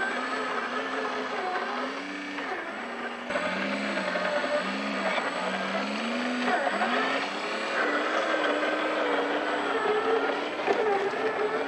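Radio-controlled scale truck's motor and gear drivetrain whining as it drives, its pitch rising and falling with the throttle.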